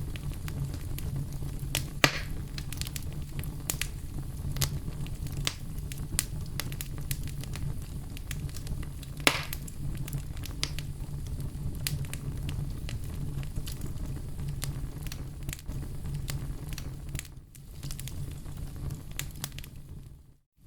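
Campfire burning: a steady low rumble of flames with scattered sharp crackles and pops, two of them louder about 2 and 9 seconds in. The sound dips briefly and cuts out for a moment near the end.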